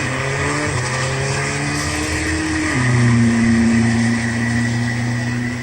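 Diesel drag racing vehicle making a full-throttle pass down the strip just after the green light. Its engine note drops in steps, with a clear downward step about three seconds in. A steady high whistle runs alongside it.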